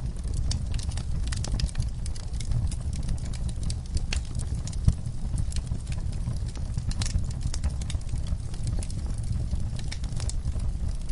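Wood fire in a fireplace crackling: irregular sharp pops and snaps over a steady low rumble of the flames, with one louder pop about five seconds in.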